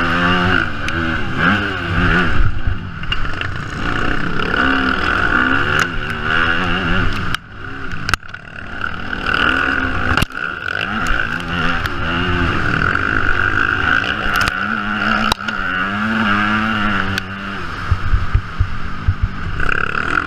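Yamaha motocross bike engine revving up and falling back again and again as the rider works the throttle, heard from an onboard camera with steady wind rush. A few sharp knocks cut through, and the engine drops off briefly about seven seconds in.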